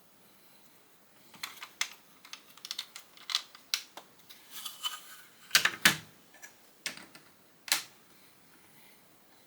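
Plastic Lego bricks clicking and clattering as pieces are handled and pressed together: an irregular run of sharp clicks, loudest a little past the middle, stopping well before the end.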